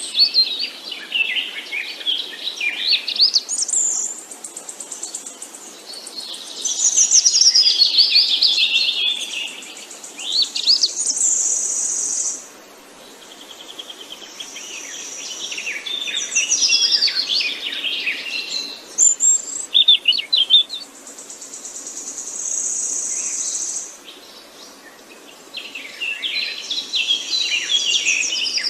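Songbirds singing: bouts of rapid chirps and warbled trills a few seconds long, broken by short pauses. At times a steady high buzz, like an insect or a bird's trill, sounds alongside them.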